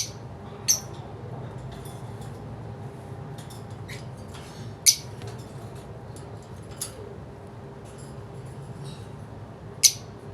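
Pet lovebirds giving short, sharp, high-pitched chirps and squeaks, four of them loud and many fainter ones in between, over a low steady hum.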